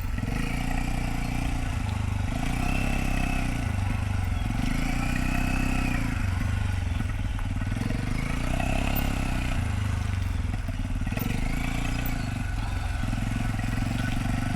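Motorcycle engine running at low speed, its revs rising and falling in smooth swells every few seconds.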